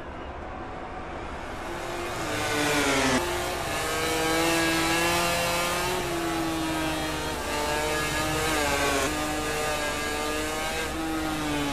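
MotoGP racing motorcycle engine running hard. Its pitch climbs for the first three seconds, drops sharply at a gear change, then holds and wavers with further shifts and throttle changes.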